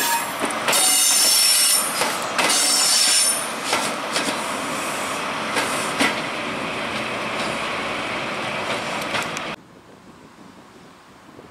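ScotRail Class 43 HST train moving slowly through a station, its wheels squealing high-pitched twice in the first few seconds, with clicks over the rail joints and a steady rumble. The sound cuts off suddenly about nine and a half seconds in, leaving a quiet outdoor background.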